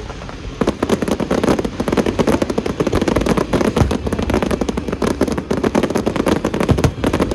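Fireworks display: a dense, rapid barrage of bangs and crackles that starts about half a second in and keeps going without a break.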